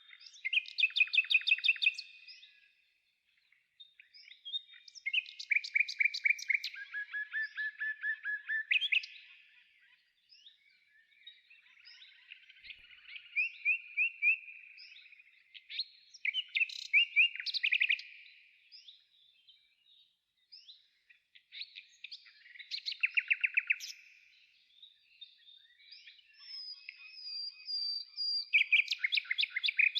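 A songbird singing, with short rapid trilled phrases repeated every few seconds.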